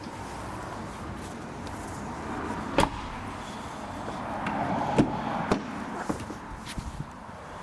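Car noise: a steady rush that swells for about five seconds and then eases off, with three sharp knocks, the first about three seconds in and two more close together around five seconds in.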